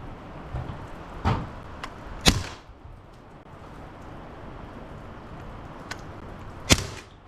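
MP9 air gun fired at sparrow-sized targets: sharp cracks about a second in, again a second later, and once more near the end, with a smaller click in between.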